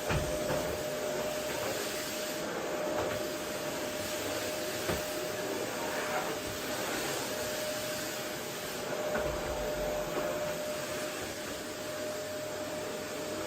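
Vacuum cleaner running steadily over a floor, an even rushing of air under a constant motor whine, with a few soft low knocks as the head is pushed about.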